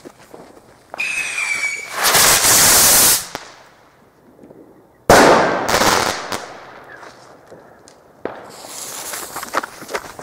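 Consumer fireworks going off: a short whistle about a second in, then a loud rushing burst. A sharp bang follows about five seconds in, and crackling from about eight seconds.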